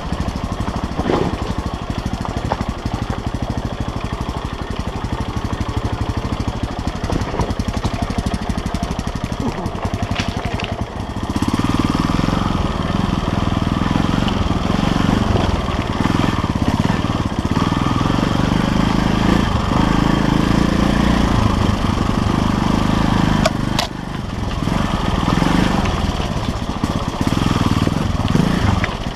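KTM LC4 350 single-cylinder four-stroke enduro engine running under a rider. It runs at a lower, steadier level, then opens up louder at about a third of the way in, with a brief drop in throttle about two-thirds of the way through.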